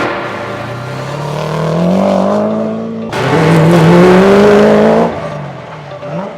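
Rally car engine accelerating hard, its pitch climbing steadily. About three seconds in, the sound cuts abruptly to another engine accelerating, which eases off and then rises again near the end.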